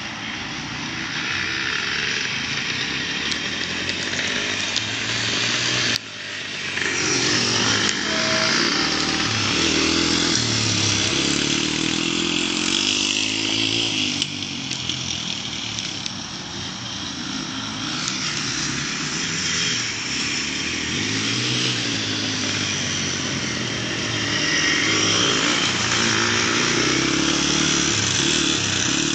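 Motorbike engines being ridden, revving up and down so the pitch rises and falls over and over. There is a sudden break about six seconds in.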